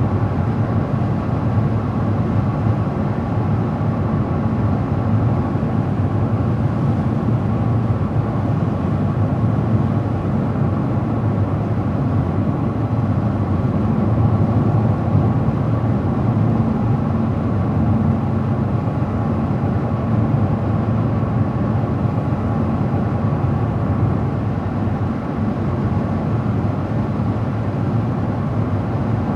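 Car driving at a steady speed: constant road and engine noise with no change in pace.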